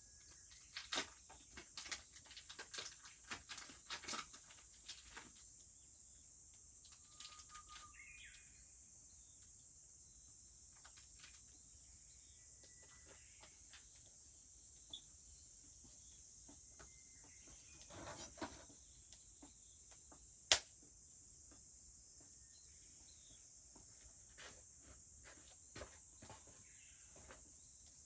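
A steady high-pitched drone of summer insects, with scattered sharp clicks and crackles, densest in the first few seconds and one loudest snap about two-thirds of the way in. A few short bird chirps come through faintly.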